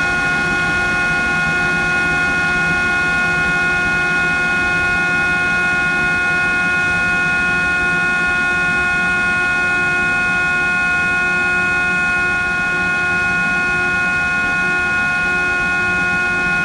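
Variable-frequency drive (inverter) running during its acceleration from 40 Hz toward 60 Hz, with a loud, steady whine of several high tones over a hum. This is the abnormal noise it makes while ramping, which stops once it is stable at 60 Hz.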